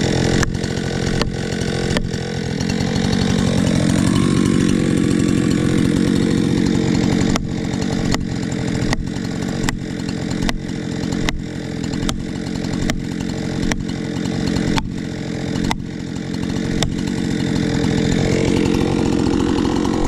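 Chainsaw running hard, its engine note shifting a little in pitch over the first few seconds and then holding steady. Through the middle stretch a sharp tick repeats about once a second.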